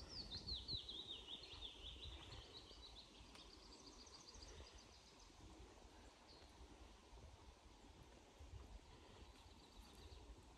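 Faint songbird song: a falling run of quick trilled notes in the first few seconds, then shorter high trills later on, over a faint low rumble.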